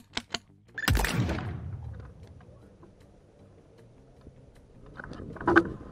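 Airsoft gunfire: three quick sharp shots, then a loud hit about a second in that dies away over a second or two, and more sharp snaps near the end.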